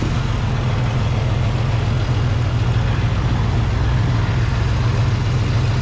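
1983 Chevy S10 Blazer's six-cylinder engine idling steadily, a little loud from a bad exhaust leak. The idle is rough and the engine shakes, which the owner suspects is ignition timing that is a little off.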